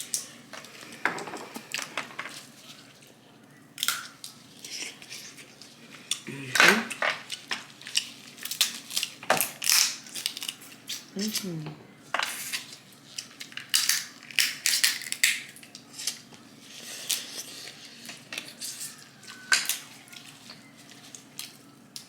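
Snow crab legs being cracked and snapped open, with many sharp, irregular cracks and clicks of shell. There are brief hums from the eater about six and eleven seconds in.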